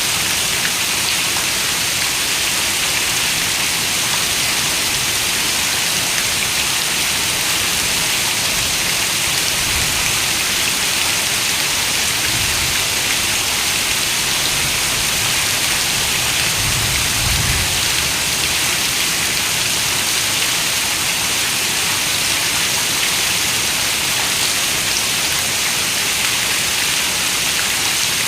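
Steady rain, a dense even hiss of many drops. A few soft, brief low rumbles rise under it in the middle.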